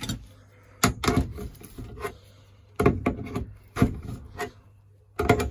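A string of irregular knocks and clicks with some rubbing, as of hard objects being handled and set down.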